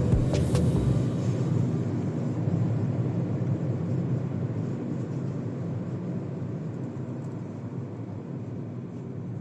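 A car being driven: a steady low engine and road rumble that fades out gradually.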